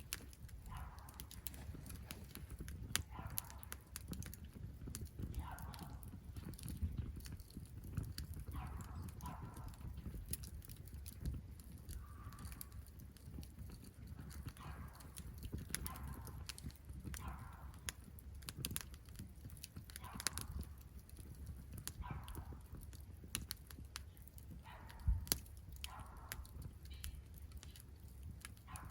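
Campfire crackling, with frequent sharp pops over a steady low rumble. A short call repeats every second or two in the background.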